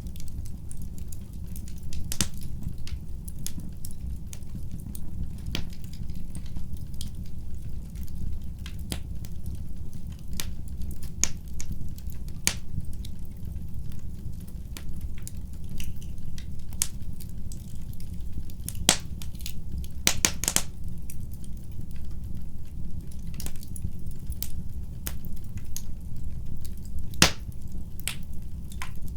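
Wood fire burning in a fireplace: a steady low rumble of flame with irregular sharp crackles and pops, a few louder snaps standing out.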